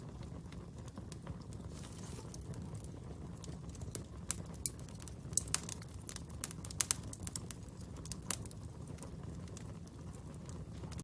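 Wood fire burning with a steady low rumble, and a run of sharp crackles and pops in the middle.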